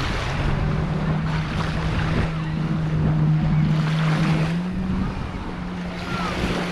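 Jet ski engine running steadily, its pitch stepping up a little about two thirds of the way through, under wind noise and splashing water.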